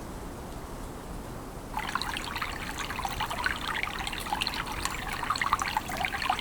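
Water pouring and trickling for about four and a half seconds, starting suddenly about two seconds in and stopping just before the end.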